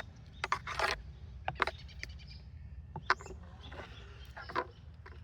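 Scattered short clicks and scrapes from hive parts being handled while the bottom board is cleaned and checked, over a steady low hum.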